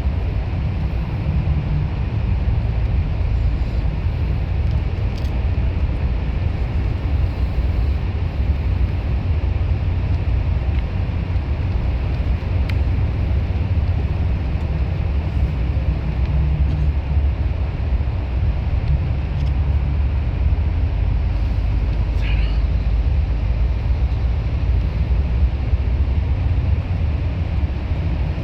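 Steady low rumble of a bus's engine and road noise, heard from inside the moving bus, with a brief high squeak about three quarters of the way through.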